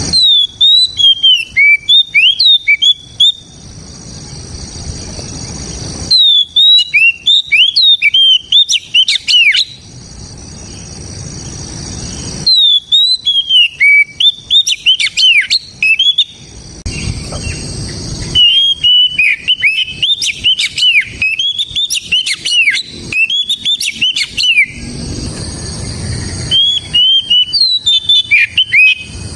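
Oriental magpie-robin (kacer) singing loud, clear whistled song in five phrases of a few seconds each, the notes sliding sharply up and down, with short pauses between phrases.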